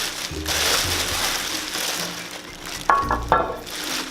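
Packaging crackling and rustling as the stoneware fountain base is unpacked, then a few sharp knocks with a short ring about three seconds in, like the ceramic being bumped or set down.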